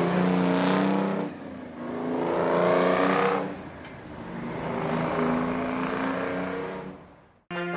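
Big diesel truck engine revving in three swells, its pitch climbing during the rises, then fading away near the end.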